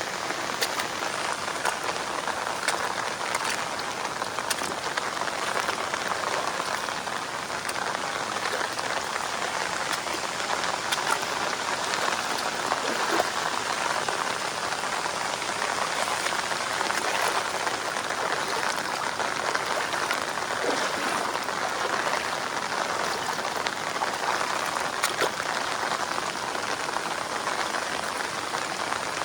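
Heavy rain falling steadily, with many separate drop hits ticking through the hiss.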